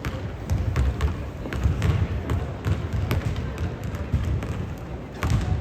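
A basketball being dribbled on a gym floor: a run of dull thumps, roughly two to three a second, with sharper clicks and knocks mixed in.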